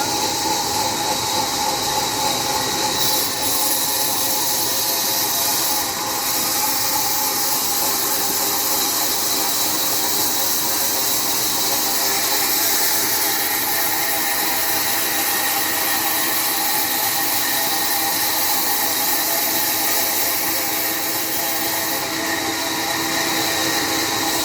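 Sawmill saw running steadily and cutting through a jackfruit log: a loud, even whine with several steady tones over a strong hiss.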